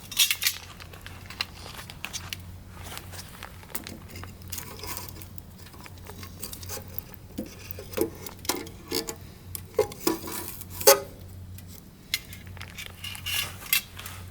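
Firewood burning, crackling and popping irregularly, with a few sharp metallic-sounding clinks among the pops, the loudest about eleven seconds in.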